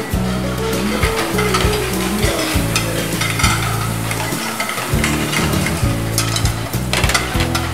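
Minced meat and onions sizzling in frying pans as they are stirred with spoons, with a few sharp clicks near the end. Background music with a low, stepping bass line runs underneath.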